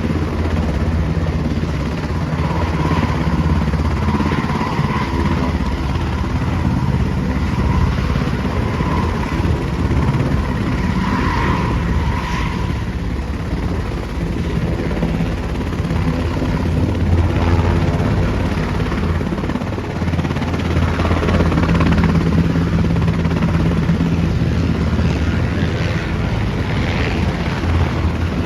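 Search-and-rescue helicopter running: a steady, loud low rumble with a faint whine in the first half.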